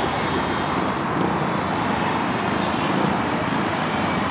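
Align T-Rex 700E electric RC helicopter in flight: steady rotor noise with a thin high whine over it.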